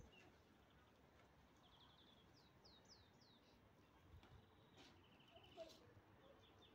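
Near silence with faint small-bird calls: a quick high trill about two seconds in, a few falling chirps right after, and another short trill about five seconds in.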